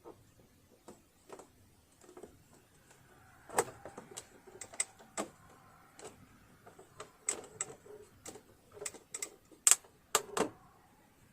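Irregular sharp clicks and small metallic taps from tools and parts being handled while working on a sewing machine's mechanism, thickening after a few seconds, with the loudest clicks near the end.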